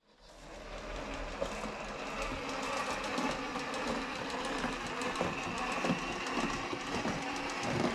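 Traxxas TRX-4 RC crawler running: the electric motor and gear drivetrain whine steadily, with rapid clicking and clattering of the chassis and suspension. It fades in over the first second.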